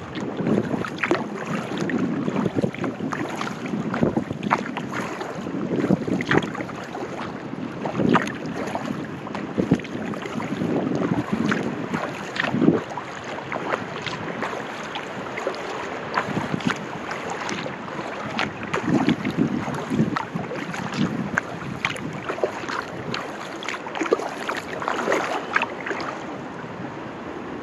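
Kayak paddle strokes in the water, with splashes and dripping from the paddle blades and water lapping on the hull, over wind buffeting the microphone.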